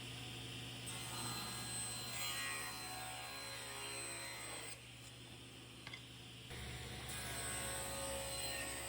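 A workshop power tool's motor running with a steady electric hum, with a few falling whines.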